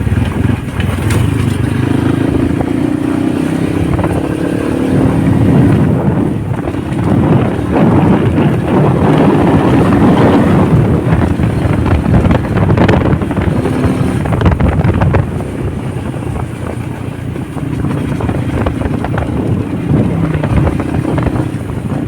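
Honda motorcycle engine running while under way, its pitch drifting up and down with the throttle over a steady rush of road noise; it eases off somewhat about two-thirds of the way through before picking up again.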